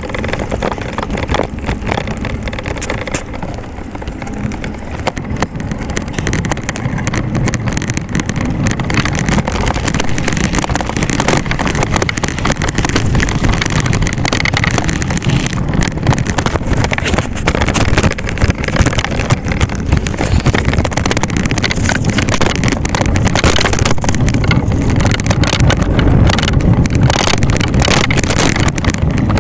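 Wind buffeting the microphone while riding, a loud steady rumble that grows a little louder about ten seconds in.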